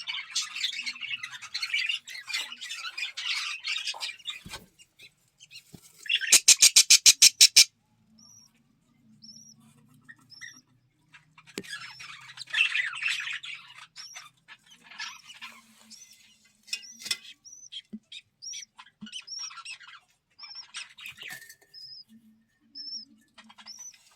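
A flock of budgerigars chattering and chirping, with dense warbling at the start and again midway, and short, high, repeated chirps between. About six seconds in comes the loudest sound: a rapid rattle of about ten sharp strokes lasting a second and a half.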